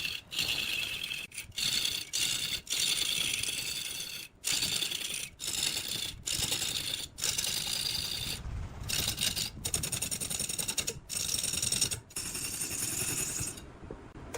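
Repeated scraping strokes of a hand tool working wood, about one to two strokes a second with brief breaks between them, stopping just before the end.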